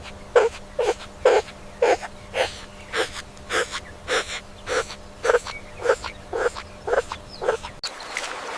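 An animal giving a rapid series of short, crying calls, about two a second, over a steady hum. It cuts off abruptly near the end to a steady hiss.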